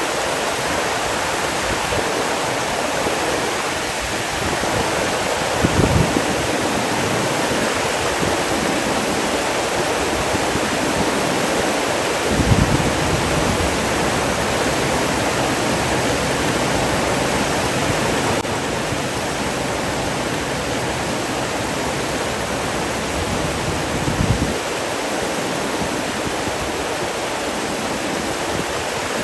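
Steady rushing water, like a waterfall or fast stream, with three brief low thuds spread through it.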